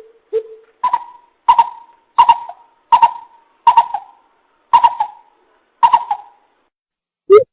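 Coucal (bìm bịp) calling a series of hollow hoots: a low hoot at the start, then about seven higher hoots, each starting sharply, spaced under a second apart and slowing toward the end.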